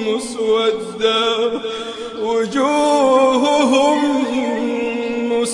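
A man reciting the Quran in the melodic, chanted tajweed style, holding long notes that slide up and down in pitch, with brief pauses for breath.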